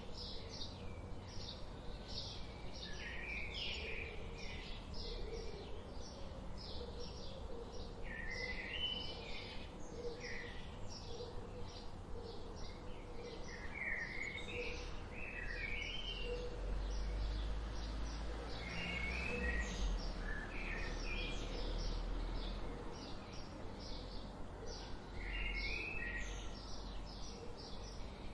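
A chorus of songbirds chirping and singing: many short high notes and quick upward and downward sweeps that overlap without pause. A low rumble sits underneath for several seconds about halfway through.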